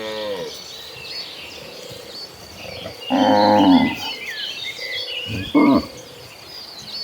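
Cattle mooing: a moo trailing off at the start, a loud drawn-out bellow about three seconds in, and a short call about two seconds later. High chirping goes on throughout.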